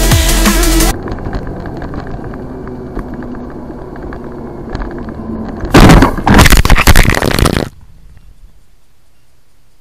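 Electronic music cuts off about a second in, giving way to steady road and engine noise from inside a vehicle. A few seconds later comes a very loud car crash, about two seconds of repeated impacts and scraping, which stops abruptly and leaves a faint low hum.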